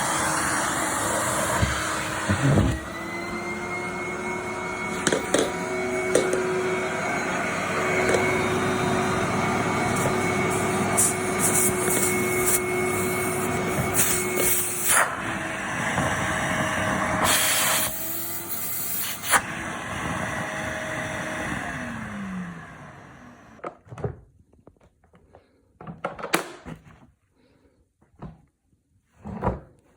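Vacuum cleaner running steadily, its motor tone stepping up in pitch about three seconds in and shifting a few times, with the occasional knock and a louder rush of air around 16 to 18 seconds. About 22 seconds in it is switched off and winds down with a falling whine, leaving a few soft knocks.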